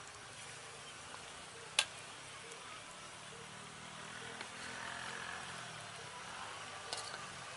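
Water snake pieces sizzling in hot oil in a wok, with one sharp clink of the metal spoon a couple of seconds in.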